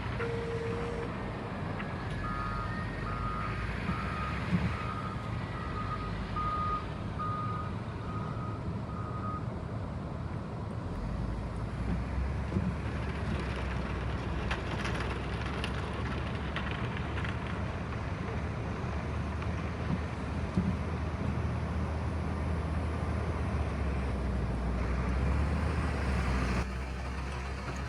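A vehicle's reversing alarm beeping steadily, about one beep every two-thirds of a second, for several seconds near the start over a low engine rumble. The engine rumble grows heavier about halfway through.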